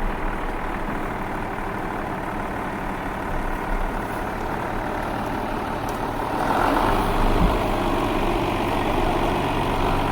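A vehicle engine running steadily, growing louder and busier about six seconds in.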